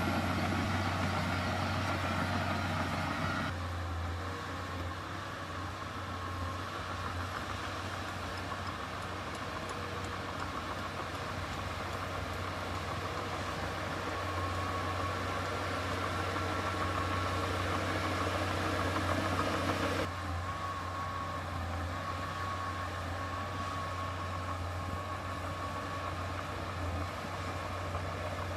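Diesel engine of heavy earthmoving machinery running steadily with a strong low hum. The rest of the sound changes abruptly about three and a half seconds in and again about twenty seconds in.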